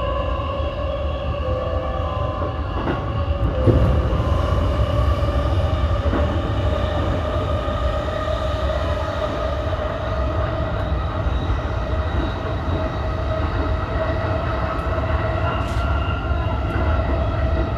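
E233 series electric commuter train running on the line, its traction motors giving a steady whine that rises slowly in pitch as it gathers speed, over a constant low rumble of wheels on rail.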